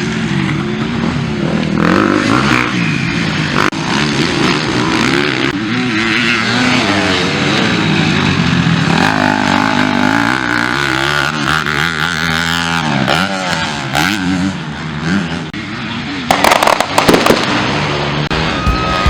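Several MX2-class motocross bikes racing, their engines revving up and falling back through gear changes with the notes overlapping. A short burst of sharp knocks comes about three-quarters of the way through.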